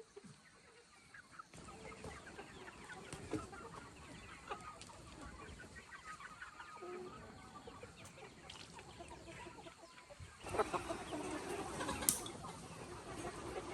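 A flock of chickens clucking and chirping, louder from about ten seconds in, with a sharp click about twelve seconds in.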